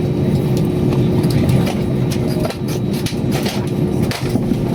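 A vehicle's steady low running rumble with a constant hum, and scattered clicks and rattles throughout.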